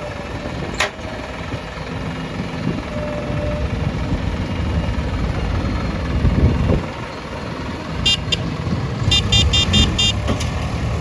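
Diesel machinery engine running steadily, with a sharp click about a second in. Near the end a horn toots in short beeps: twice, then five times in quick succession.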